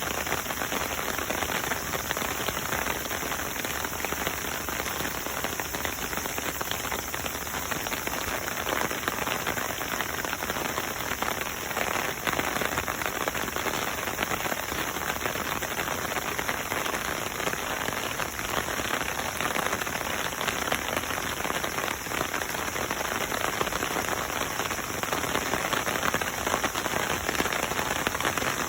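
Steady rain falling on a surface, a continuous hiss dense with the small ticks of individual drops.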